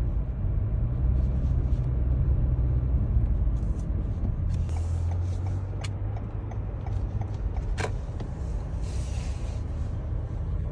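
Low, steady rumble of a car's engine and road noise heard from inside the cabin, with two sharp clicks in the second half.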